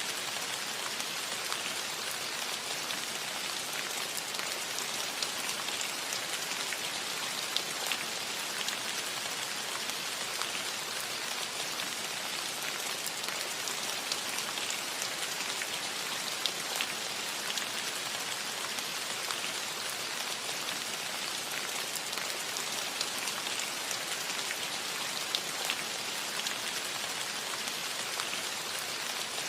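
Steady gentle rain falling on a metal roof: an even hiss of rain with scattered sharper drop ticks.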